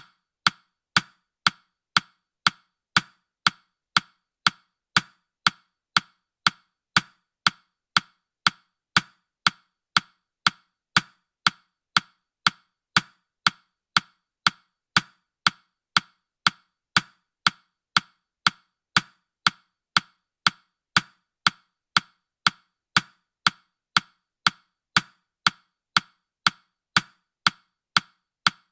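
Countdown timer's ticking sound effect: sharp, evenly spaced clock-like ticks, about two a second.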